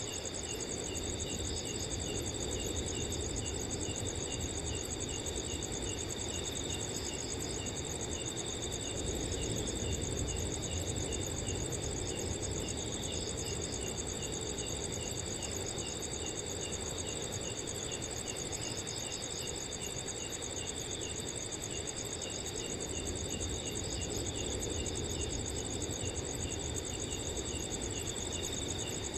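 Several crickets chirping steadily together, with a continuous high trill and rapid, even pulsed chirps on a few pitches, over a low, steady rush of wind.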